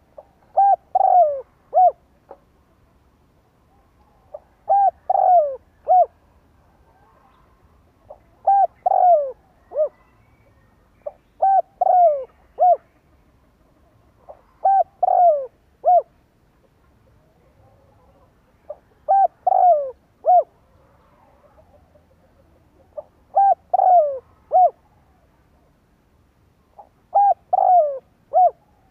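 Spotted dove cooing: a short phrase of a few notes, with a longer falling note in the middle, repeated eight times about every four seconds.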